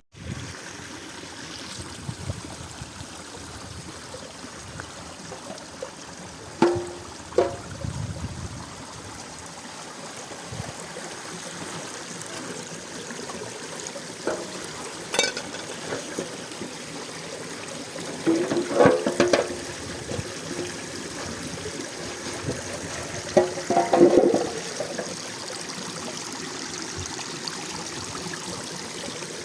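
Mountain spring water running and trickling steadily, with a few short, louder sounds over it.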